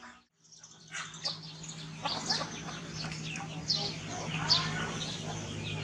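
Birds chirping: many short, high, falling chirps in quick, irregular succession over a steady low hum, starting after a brief gap at the beginning.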